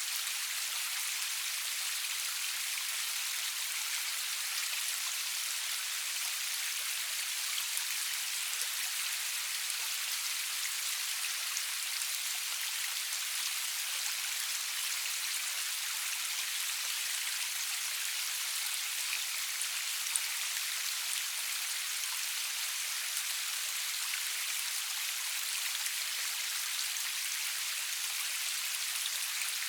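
Steady rain falling, a continuous even hiss of many drops with small individual drop ticks scattered through it, no thunder.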